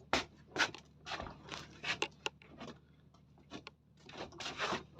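A string of short, irregular scrapes and rustles from hands handling gear, as a coley and knife are got ready for cutting into bait.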